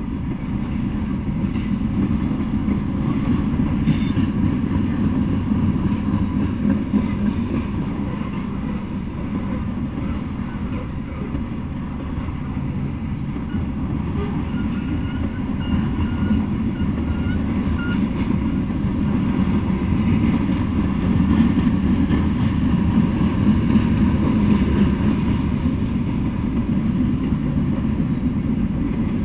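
Freight cars rolling past on the rails: a steady, continuous low rumble of steel wheels on track.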